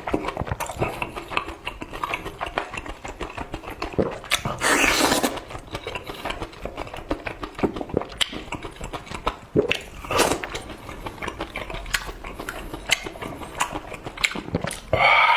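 Close mouth sounds of a person eating: wet chewing and smacking clicks, with longer, louder mouth noises about five and ten seconds in.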